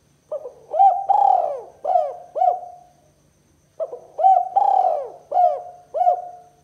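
Spotted dove cooing: two phrases of about five coos each, the second phrase starting about three and a half seconds in.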